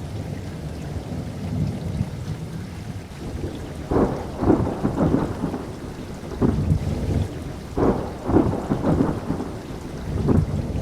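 Steady rain with thunder rumbling low throughout and breaking into loud crackling peals about four seconds in, again around six and a half and eight seconds, and once more near the end.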